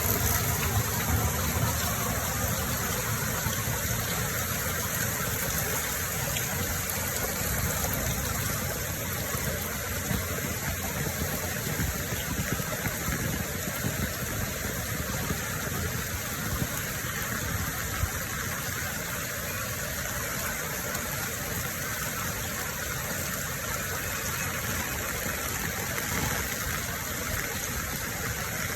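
Heavy rain pouring steadily, a continuous even rush of falling water.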